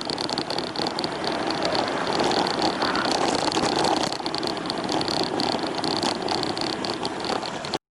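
Road traffic: cars running by in a steady wash of engine and tyre noise, with a steady high-pitched whine over it. It cuts off suddenly near the end.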